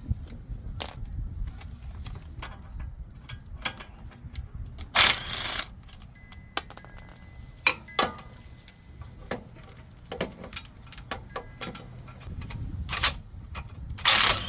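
Metal hand tools clinking and knocking on brake parts as the front caliper and its mounting bracket are unbolted, with scattered sharp clicks and two louder, longer noisy bursts, one about five seconds in and one near the end.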